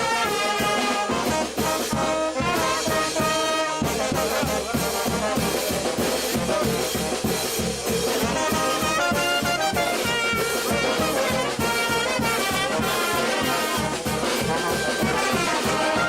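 Brass band playing: trumpets and trombones carry the melody over a steady drum beat, with the bass and drums coming back in strongly about four seconds in.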